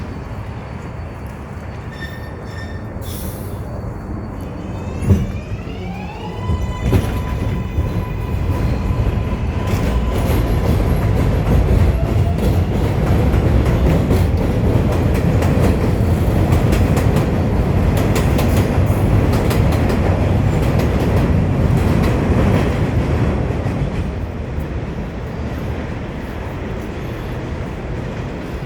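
NYC subway 7 train pulling away and running, heard from inside the car. About five seconds in there is a knock, then the motor whine rises in steps as the train accelerates. Loud running rumble follows, with wheels clacking over rail joints, easing off near the end.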